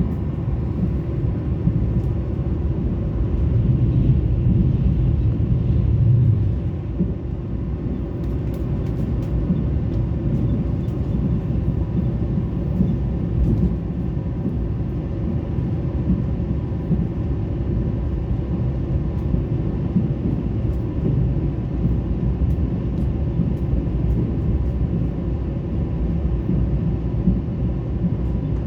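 Mugunghwa-ho passenger train running: a steady low rumble with a few faint ticks, swelling louder between about four and six seconds in.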